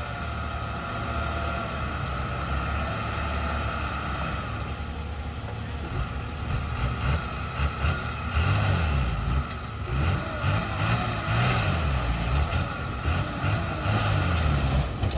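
Diesel engines of heavy earthmoving machines running. For the first half the running is steady. From about six seconds in, the engine pitch rises and falls over and over as the machines work under load.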